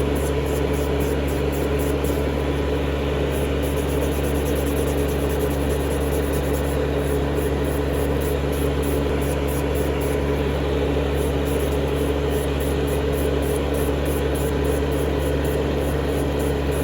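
A small electric motor running at a constant speed: a steady hum with a hiss over it, unchanging throughout.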